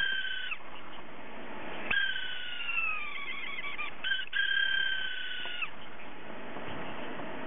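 Hard disk drive with a failing spindle motor bearing, struggling to spin and squealing in high, cat-like meows. There are several wails, the longest one sliding slowly down in pitch, and then only fainter noise for the last couple of seconds.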